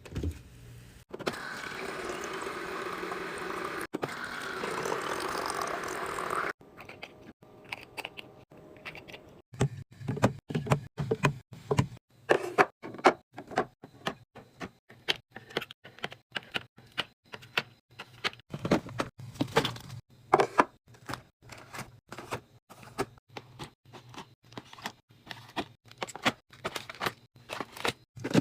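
Water running or pouring steadily for about five seconds and stopping abruptly. Then, after a short pause, a long irregular series of light knocks and clicks, like hard objects being handled and set down.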